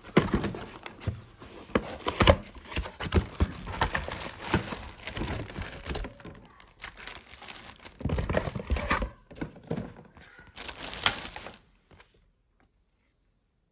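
Plastic crinkling and rustling as it is handled, with irregular clicks and knocks, in several bouts that stop about twelve seconds in.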